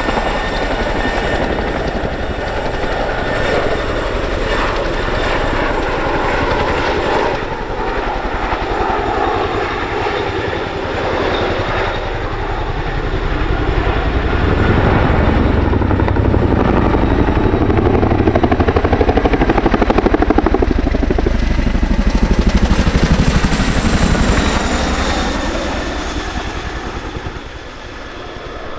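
Boeing CH-47F Chinook tandem-rotor military helicopter flying, its rotors and engines running continuously; the sound grows louder through the middle and fades toward the end as it moves away.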